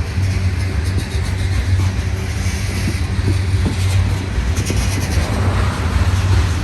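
CSX coal train rolling past with a steady heavy low rumble and scattered clicks and clanks from wheels and cars, the rattle growing a little louder near the end.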